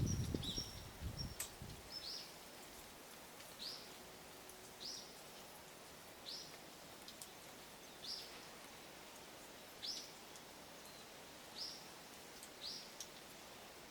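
A small songbird repeating a single short, high call note about once every second and a half. A low rustling fades out in the first two seconds.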